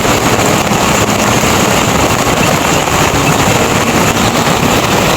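Heavy rain pouring down, a loud, steady rushing hiss with no let-up.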